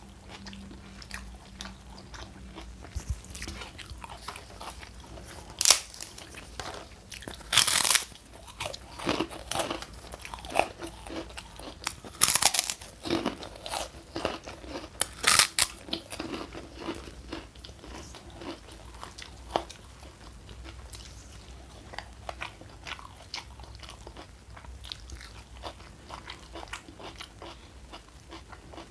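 Eating sounds: chewing with several loud, sharp crunchy bites in the first half, then softer steady chewing.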